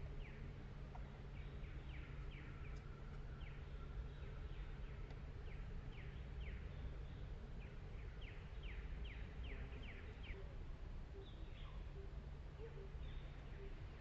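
Small birds chirping: short, high, falling chirps in loose runs, faint over a low steady rumble of outdoor background noise.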